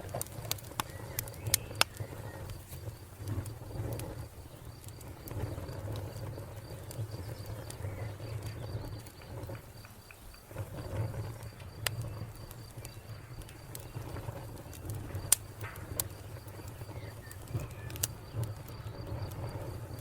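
Wood fire crackling, with sharp pops every second or few over a low steady rumble of the flames. A cricket trills steadily in the background.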